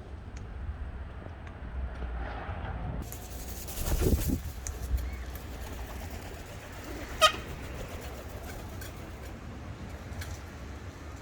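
Wild birds calling over a steady low rumble of wind on the microphone, with one short, sharp call about seven seconds in, the loudest sound.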